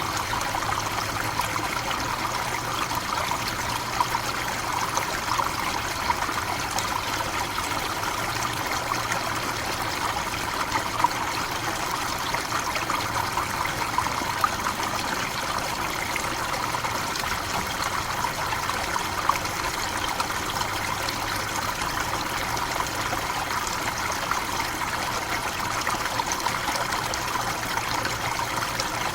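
Waterfall in a tropical forest: steady rushing and splashing of falling water, with small irregular splashes standing out now and then.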